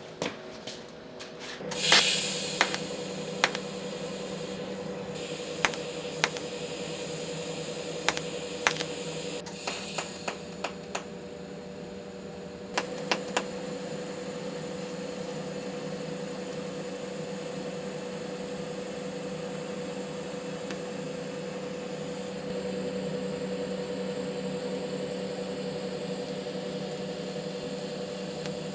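A steady machine hum starts with a brief hiss about two seconds in and runs on, with scattered sharp metallic clicks and taps over the first half.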